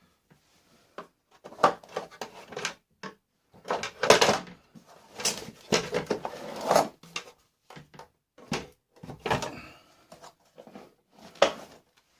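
Plastic parts of a Hoover vacuum cleaner being pulled apart and handled, with an irregular series of clattering knocks and rattles, the loudest around four to seven seconds in.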